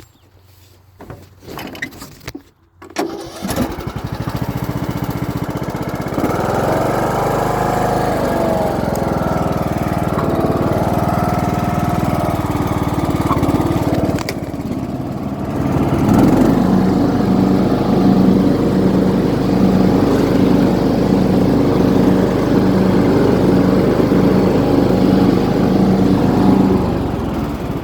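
Craftsman YTS3000 riding mower engine starting about three seconds in and running, its speed wavering at first. From about sixteen seconds in it settles into a steadier, louder run with an even beat.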